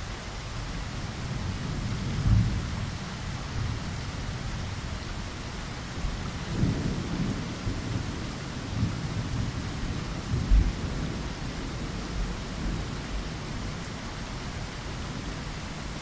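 Steady rain with thunder rumbling low: one rumble about two seconds in, then a longer roll from about six to eleven seconds in that is loudest near its end.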